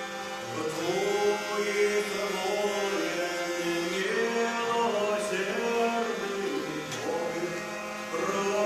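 A group of voices singing a slow melody together, holding each note for about a second before moving to the next.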